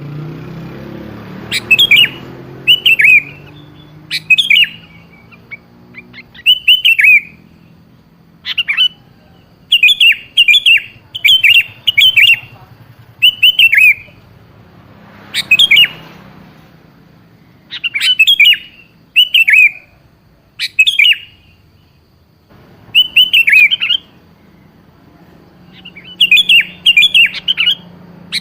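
Sooty-headed bulbul (kutilang) calling: short, sharp chirps that fall in pitch, given singly or in quick runs of two to four, repeated over and over with short gaps, over a low steady hum.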